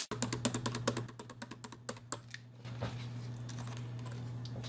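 A quick run of light, sharp clicks, like keys being tapped, for the first two and a half seconds, then a few scattered clicks over a steady low hum.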